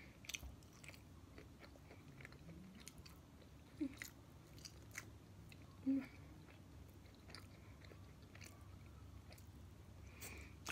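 A person chewing homemade french fries, faint, with scattered small mouth clicks.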